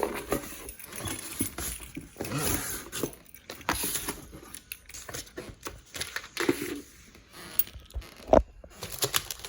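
A cardboard case of Roman candles being opened and its packs handled: irregular rustling, crinkling and light clattering of packaging, with one sharp knock near the end.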